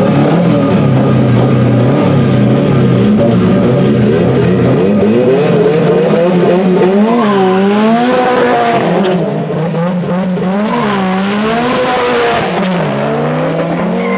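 Two race-prepared cars, a Subaru Impreza Type R and a modified Toyota Corolla, revving held steady at the start line, then launching and accelerating hard down a drag strip, engine pitch climbing and dropping with each gear change.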